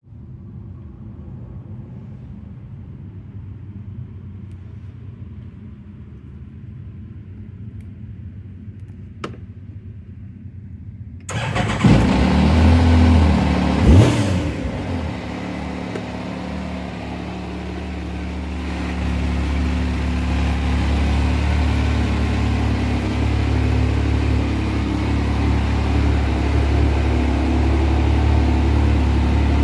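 Yamaha YXZ1000R's three-cylinder engine starting about eleven seconds in after a low hum and a click, revving up and down briefly, then settling into a steady idle that picks up a little later on.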